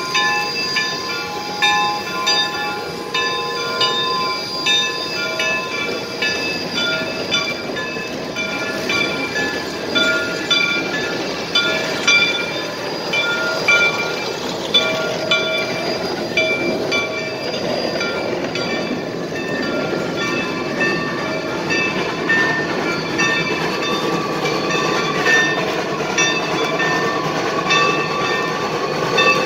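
A geared steam locomotive train running along the track: a steady rumble with many short, shifting high squealing tones from the wheels and running gear.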